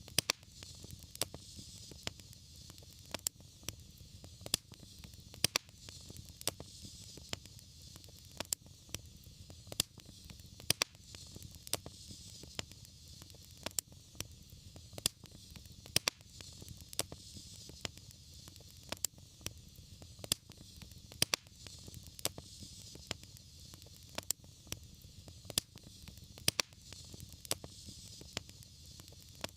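Fireplace fire crackling, with sharp pops coming irregularly about once a second over a steady low rumble and hiss of the flames.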